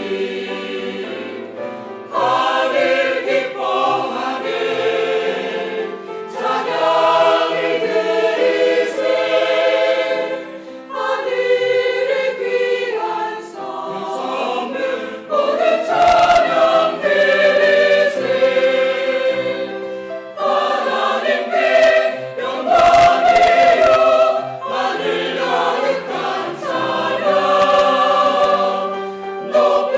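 Church choir singing part of a Christmas cantata in Korean, in sustained phrases of a few seconds each with brief breaks between them.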